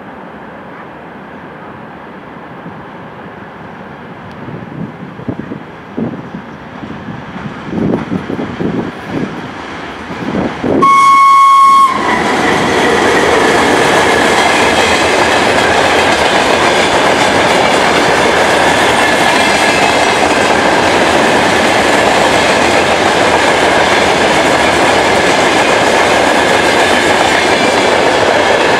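VL80K electric locomotive hauling a freight train. Its approach grows louder, and about eleven seconds in it sounds one loud horn blast of about a second. The covered hopper wagons then roll past with steady wheel-on-rail noise and clickety-clack.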